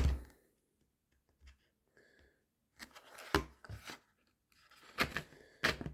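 Small hand file rasping at the edge of a hole in a leather case in a few short, irregular strokes. The strokes start about three seconds in, after a near-silent stretch.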